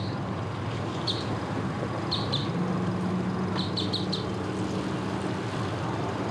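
An engine running steadily at idle with a low, even hum, with short high bird chirps heard a few times over it, in a quick cluster about four seconds in.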